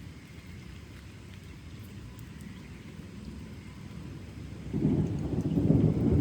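Thunder: a low, steady rumble, then nearly five seconds in a louder roll of thunder comes in suddenly and keeps building.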